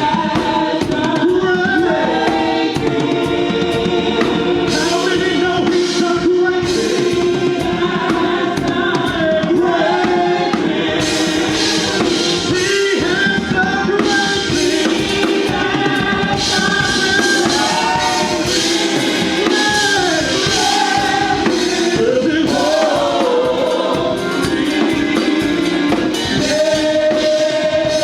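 Gospel worship song performed live: singers with a band and drum kit keeping a steady beat.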